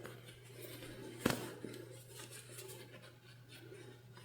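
Faint rustling of fabric being handled, with one sharp click a little over a second in as a sewing clip is snapped onto the layers.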